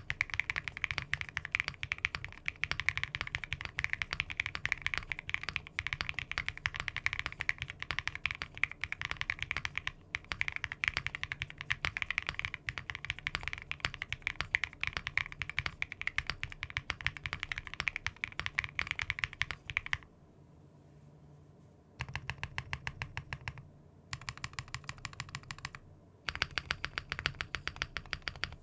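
Mechanical keyboard with Cherry-profile keycaps being typed on: fast, continuous key clacks for about twenty seconds, then three shorter bursts of typing with brief pauses between them.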